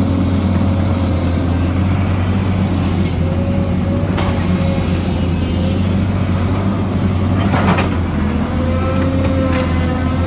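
Excavator's diesel engine running steadily with a wavering whine that comes and goes, and a clank about seven and a half seconds in.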